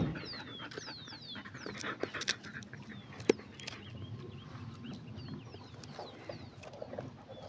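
Birds chirping, with many short falling whistled notes overlapping one another. A single sharp click about three seconds in.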